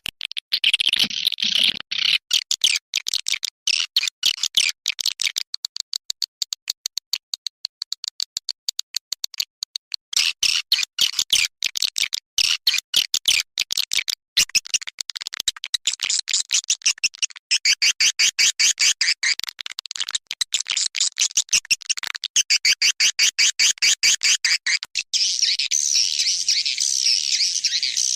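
Swiftlet call recording of the kind played to lure swiftlets: fast trains of sharp, high chirps broken by short pauses. Near the end it turns into a denser, unbroken twittering.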